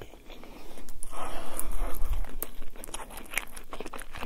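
Close-miked chewing of a mouthful of quesadilla, with soft crunches and wet mouth clicks. About a second in, a louder rustling rush lasts about a second and a half.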